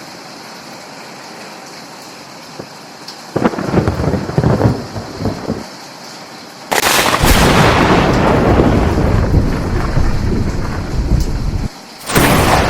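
Steady rain hiss with thunder: a crack about three seconds in that rumbles for a couple of seconds, then a longer, louder crash and rumble from about halfway that cuts off abruptly near the end, with another starting straight after.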